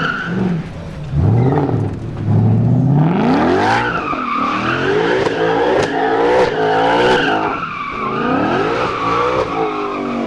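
Performance car drifting: the engine revs up and falls back again and again while the tyres squeal steadily and waver in pitch.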